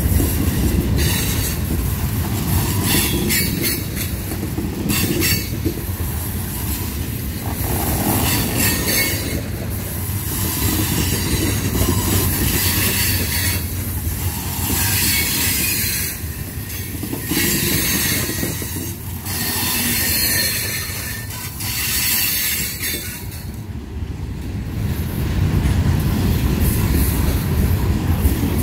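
Freight cars of a long mixed freight train rolling past close by: a steady low rumble of steel wheels on rail, with high-pitched hiss from the wheels that comes and goes every second or two and briefly drops away near the end.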